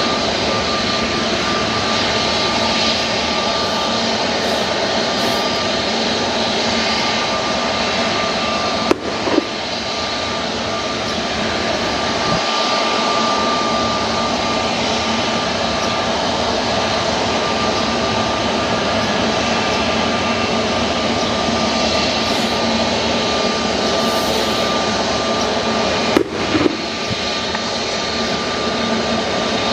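Jet airliner engines running steadily, with a constant high whine over the rushing noise. There are two brief clicks, about nine seconds in and again about twenty-six seconds in.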